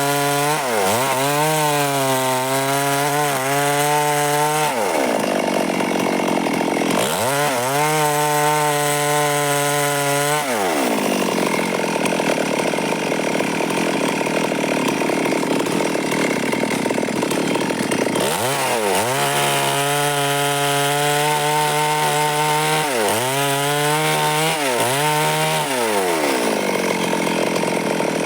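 Stihl MS382 two-stroke chainsaw running hard, its engine note dipping and recovering several times. In longer stretches, around five seconds in, from about eleven to eighteen seconds and near the end, the steady note gives way to the rough noise of the chain ripping lengthwise through the wood.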